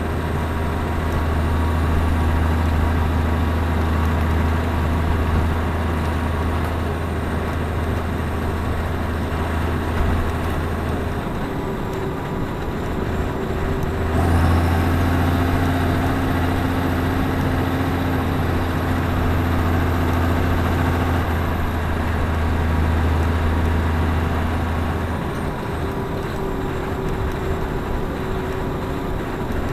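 Claas Axion 820 tractor's six-cylinder diesel engine running continuously, its deep drone shifting a few times as the load changes, stepping up noticeably about halfway through.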